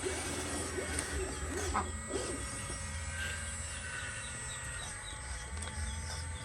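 Birds calling and chirping over a steady low hum, with small high chirps repeating through the second half.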